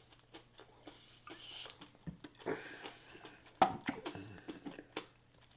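Close-miked mouth sounds of a person chewing food: soft scattered clicks and smacks, with a few brief louder bursts partway through.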